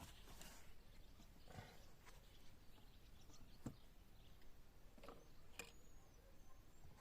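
Near silence with a few faint, scattered taps and clicks, and one faint short high chirp a little before the end.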